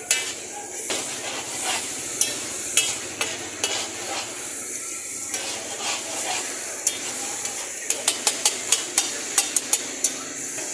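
Daal and egg mixture sizzling in oil on a large flat tawa while metal spatulas stir and scrape it, with occasional sharp clinks. From about eight seconds in, the spatulas chop against the tawa in rapid clanks, about four a second.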